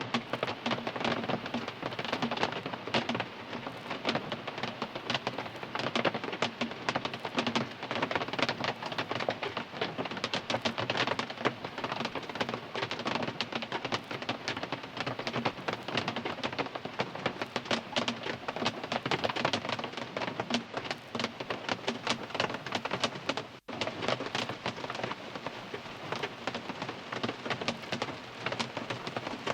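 Steady rain drumming on a car's roof and windows, heard from inside the cabin as a dense patter of drops. It cuts out for a split second about two-thirds of the way through.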